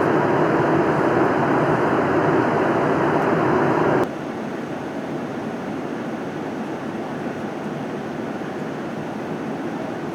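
Steady rushing cabin noise inside an ANA Boeing 787-9 powered by GE engines. About four seconds in, it drops abruptly to a quieter, duller hiss.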